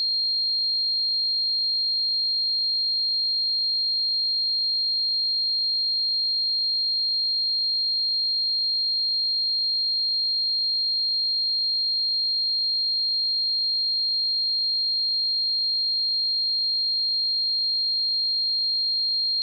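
Steady 4218 Hz sine-wave test tone: a single pure high-pitched tone held at constant pitch and level.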